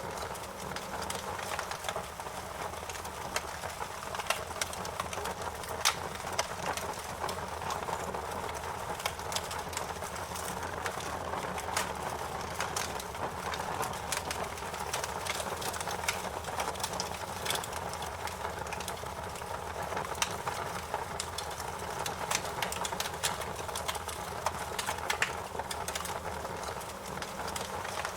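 Wood fire crackling in a fireplace: irregular sharp pops and snaps over a steady hiss and low rumble of burning.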